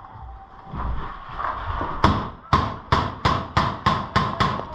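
Paintball marker firing a rapid string of about a dozen shots, roughly five a second, starting about two seconds in.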